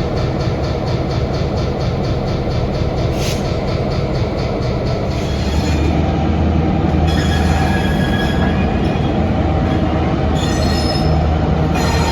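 A train rolling past, with a steady rumble of wheels on rail; about five seconds in, high ringing wheel squeal starts and comes and goes.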